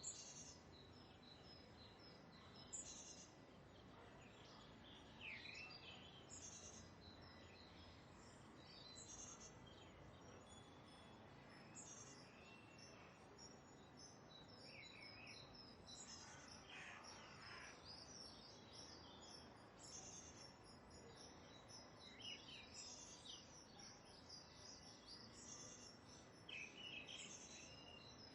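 Faint bird calls and chirps, short phrases every second or two, over a low steady hiss.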